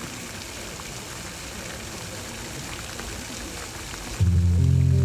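A steady rushing hiss, then music with deep sustained bass notes starts abruptly about four seconds in.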